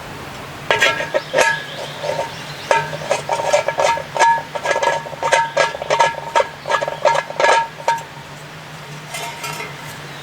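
Metal utensil clinking and tapping against metal camp cookware, which rings briefly after each tap. The taps come in quick, irregular runs starting shortly in and stop about two seconds before the end, over a steady low hum.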